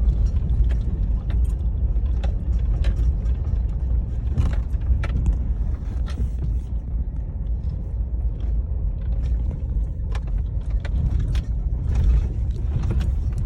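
Vehicle cab interior while driving slowly over a rough, rocky dirt road: a steady low rumble with scattered knocks and rattles.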